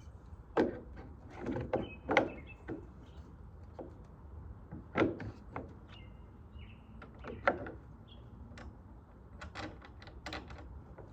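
Irregular sharp knocks and clicks from hands and tools working on a sliding door's lock hardware, about a dozen strikes, the loudest about half a second, two seconds and five seconds in. Faint bird chirps sound in the background.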